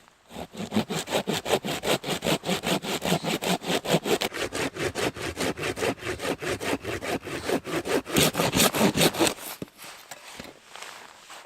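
Hand saw cutting through wood in fast, even back-and-forth strokes, getting louder near the end before stopping about nine and a half seconds in.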